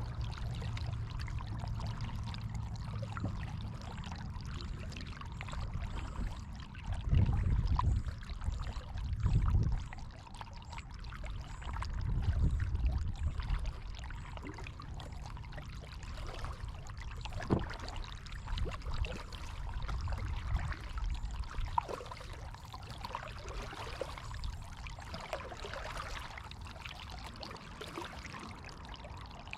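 Water splashing and trickling off a kayak paddle as it dips and lifts, with scattered light ticks. Several louder low rumbles come through about seven to ten seconds in and again around twelve seconds.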